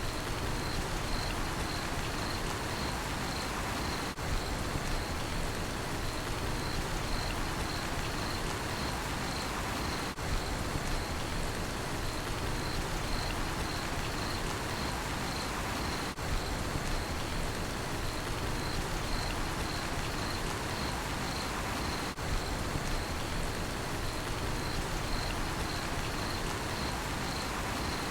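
Steady rainfall with crickets chirping in a regular high pulse, about two chirps a second, over the rain. Brief dips in level come about every six seconds.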